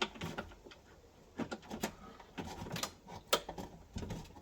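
Stainless bolts and penny washers being handled and fitted: an irregular string of light clicks and knocks, about eight of them.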